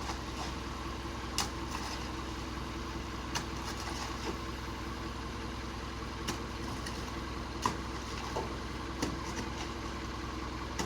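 Truck engine idling steadily, with a few scattered sharp clicks or knocks over it.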